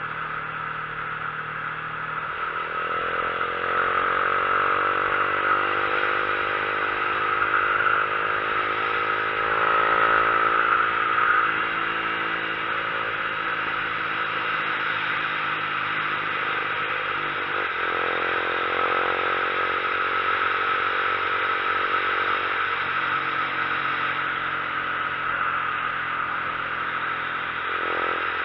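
Motorcycle engine running on a downhill mountain road, its pitch rising and falling several times as the rider shifts gears, with a steady rush of wind noise throughout.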